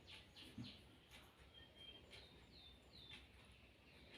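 Faint bird chirps: a series of short high calls, most dropping in pitch, with one brief held note near the middle, over quiet room tone.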